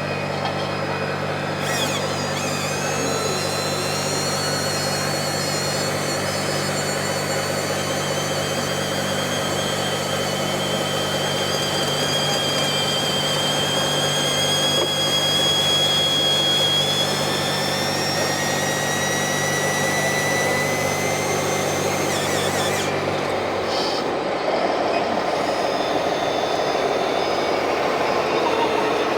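Radio-controlled model trucks running on a course, with a steady low hum that stops about 24 seconds in and thin high whines that slowly rise in pitch.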